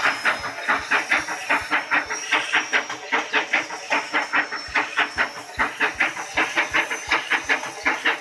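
Steam train chugging: rapid, even chuffs of hissing steam, about four a second.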